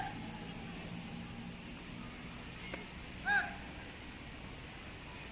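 Steady rain falling, with one short, high-pitched shout about three seconds in.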